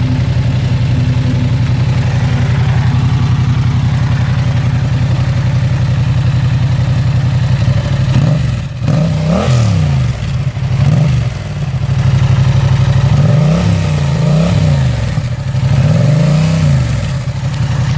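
Yamaha FZ-07's 689 cc parallel-twin engine breathing through an Akrapovic full exhaust with its dB killer baffle still in, running at a steady idle, then revved several times in the second half, each rev rising and falling back to idle. With the baffle in, the exhaust is still quiet.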